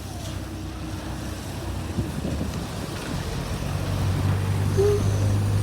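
Heavy diesel vehicle's engine running with a low, steady drone that grows louder over the last two seconds.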